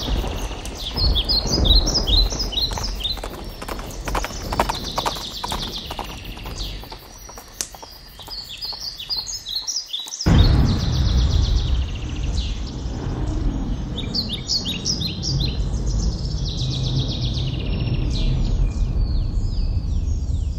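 Small birds chirping in repeated short phrases over outdoor ambience, with a run of soft thuds in the first half. About halfway through, the background switches abruptly to a louder, steady low rumble while the chirping goes on.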